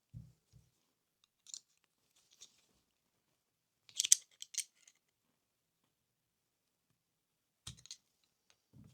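Scattered small clicks and snips of hand tools on a model locomotive's plastic parts and motor wiring, loudest as a quick cluster of clicks about four seconds in, with a few soft low bumps.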